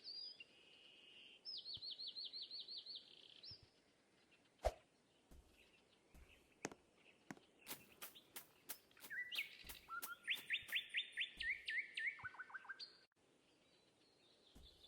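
Faint birdsong: a bird sings phrases of quickly repeated slurred whistled notes, one short phrase, then a longer one that steps down in pitch near its end. A few faint sharp clicks fall between the phrases.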